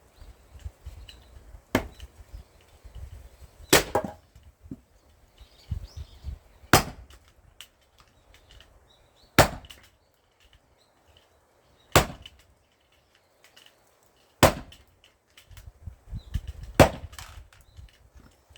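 Large forged axe chopping knotty pine firewood: seven hard, sharp strikes about two and a half seconds apart.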